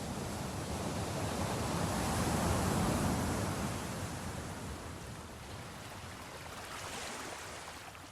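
Ocean waves breaking and washing on the shore: one wave swells to its loudest about three seconds in and then recedes, with a smaller wash near the end.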